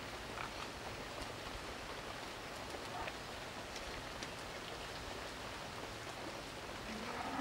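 Steady even hiss with faint scattered ticks, like light rain falling. Near the end, a bird starts a low cooing call.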